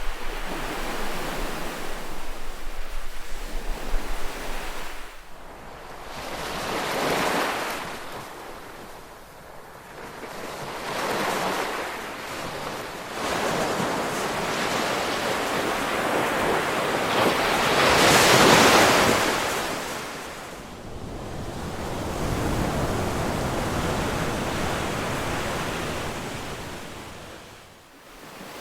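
Ocean surf: waves breaking and washing in, the sound swelling and fading every few seconds, with the largest wave about two-thirds of the way through.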